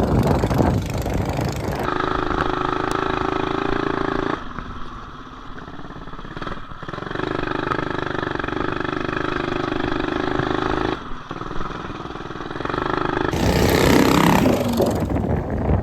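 Mini bike's Predator 212 single-cylinder engine running hard at steady high revs, dropping back twice for a few seconds before pulling again. Wind buffets the microphone near the start and again near the end.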